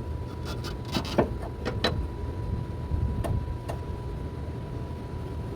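A cluster of sharp metal clicks and knocks as a new transmission support and its insulator pad are set into place, then two more light knocks, over a steady low hum.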